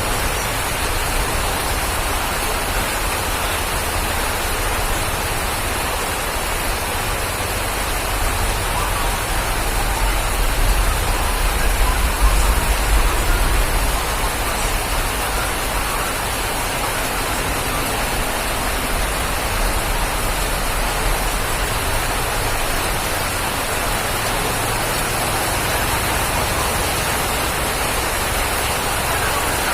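Steady rain falling, an even hiss with no breaks, with a low rumble that swells for a few seconds near the middle.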